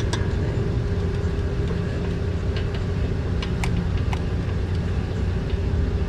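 A steady low machinery rumble with a constant hum, with a few light metallic clicks of bolts and tools being handled during valve cover bolt fitting.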